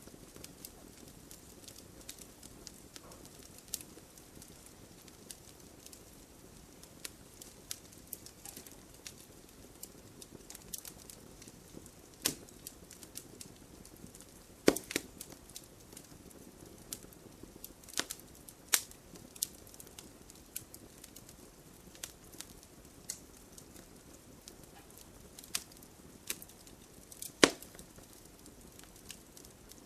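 Fire in a fireplace crackling steadily, with irregular sharp pops over a soft low rustle. A few pops stand out much louder, around the middle and near the end.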